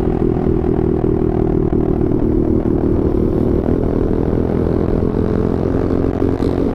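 Benelli 150S motorcycle engine running steadily at a constant cruising speed, with a low rumble beneath it.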